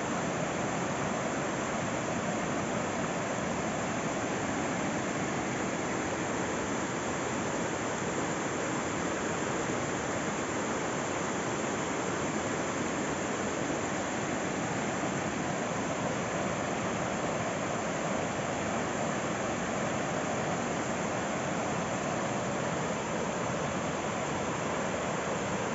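Steady rush of a rocky river flowing over stones, an even hiss with no change.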